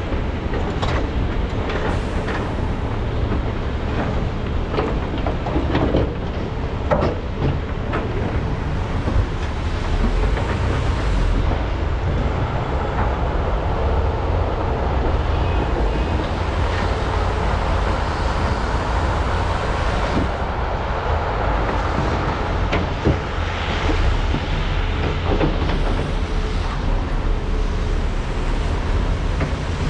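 Large hydraulic excavators' diesel engines running under load in a steady low rumble, with scattered metallic clanks and knocks from bucket and loading work, most of them in the first ten seconds.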